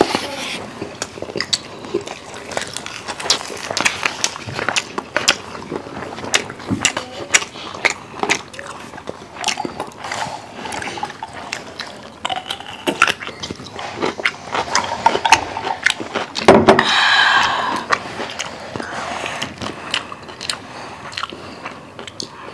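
Close-miked eating sounds: chewing, with many short crunchy bites of raw cucumber and other food. About seventeen seconds in there is a louder, voice-like sound lasting about a second.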